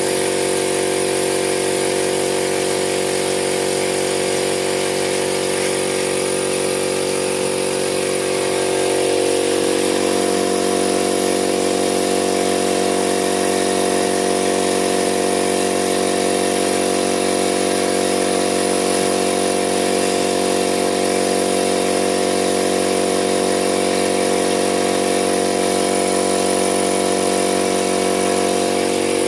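A motor running steadily with a droning hum. About nine seconds in, its tone shifts and the deepest part of the hum drops away.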